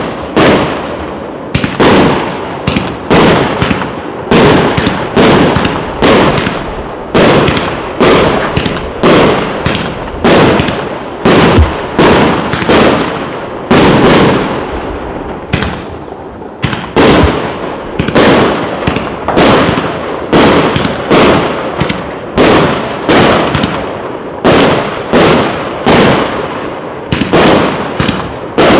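Klasek C304MK King 304-shot fireworks cake firing: a continuous run of sharp bangs, roughly one to two a second, each dying away before the next.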